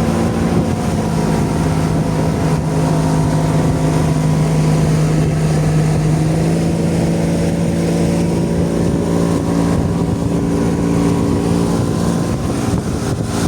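Boat engine running steadily at cruising speed, a constant droning hum, with wind buffeting the microphone.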